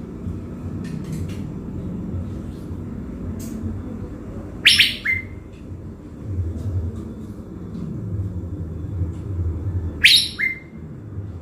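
Caged thanh lam songbird calling: two loud short calls about five seconds apart, each a harsh burst ending in a brief clear whistled note, with a few faint chirps between. A steady low rumble runs underneath.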